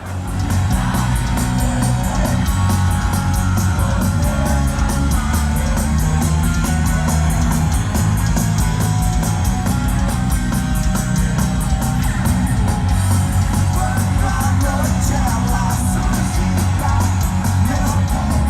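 Live heavy rock band starting a song at full volume, with distorted electric guitars, fast drums and yelled vocals.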